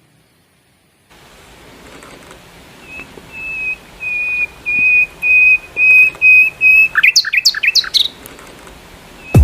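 A bird singing a series of clear whistled notes on one pitch, about two a second, then a quick burst of steep rising and falling chirps.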